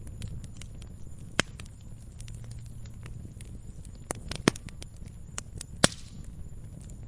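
Wood fire crackling in a fireplace: scattered small snaps over a low steady rumble, with three sharper pops, the loudest about six seconds in.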